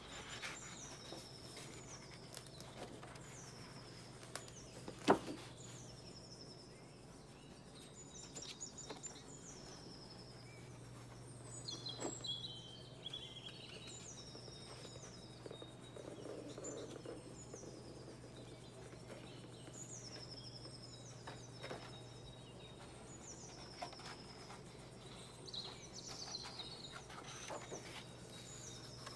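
A bird repeats short, high, falling chirps about once a second over a steady low hum. Over it come soft knocks and rustles of heavy book pages being turned by hand, the sharpest knock about five seconds in.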